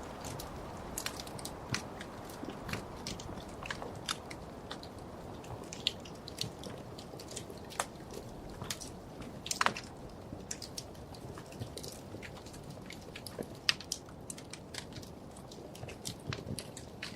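Wood fire burning in a fireplace: a steady low rush of flame with irregular sharp crackles and pops, the loudest pop about ten seconds in.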